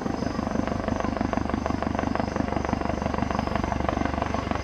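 Helicopter running steadily, its rotor beating in fast, even pulses.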